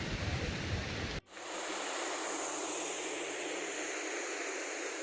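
Steady rushing of water from a waterfall or stream. About a second in, the sound drops out for a moment and comes back thinner, without its low rumble.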